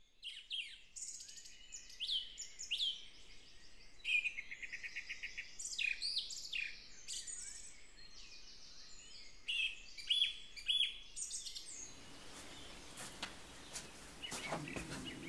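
Several songbirds singing together, with quick rising whistles and rapid trills. About twelve seconds in the birdsong stops and gives way to faint room noise with a few soft clicks and rustles.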